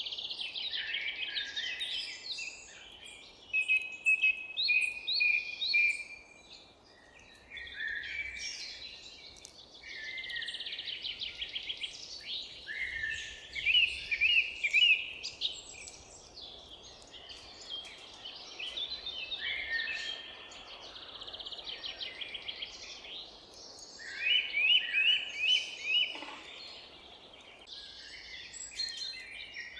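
A chorus of several songbirds, with overlapping chirps and quick runs of repeated notes, over a faint steady low background noise.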